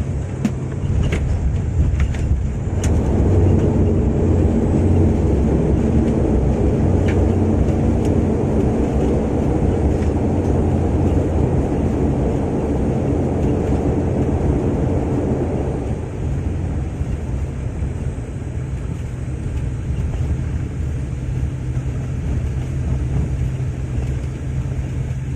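Airliner landing heard from inside the cabin: a few sharp knocks and rattles in the first three seconds, then a loud engine roar for about thirteen seconds as reverse thrust slows the aircraft. The roar drops off suddenly to a steady lower rumble as the plane rolls out on the runway.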